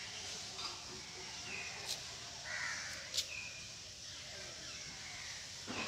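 Outdoor birds calling with a few short, harsh, crow-like calls, with two sharp clicks in the middle and a quick falling sound near the end.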